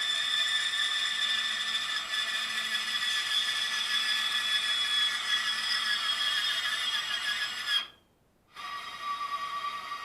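DeWalt DCS374P2 cordless deep-cut band saw cutting, its blade giving a steady high whine. The sound cuts off abruptly about eight seconds in, then resumes with a lower whine.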